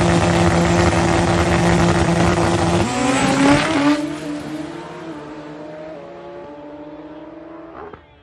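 Turbocharged Pro Extreme drag bike engine held at a loud steady high rev, then launching about three seconds in: the pitch climbs and steps through gear changes as the bike pulls away down the track and fades, cut off near the end.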